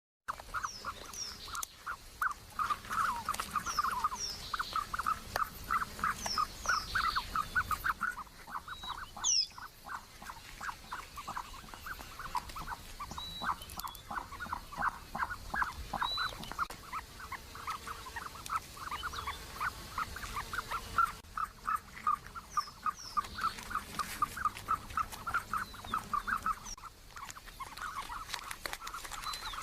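Birds calling: a fast, continuous run of short repeated notes, several a second, with occasional higher chirps over them.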